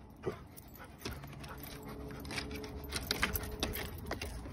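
Dogs panting and scuffling at play. Short scratchy clicks of claws and handling pick up about a second in and run on through the second half.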